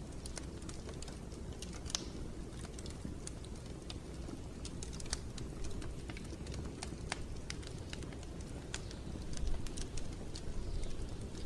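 Wood fire burning in a fireplace: a steady low rumble of flames with irregular sharp crackles and pops, a little louder near the end.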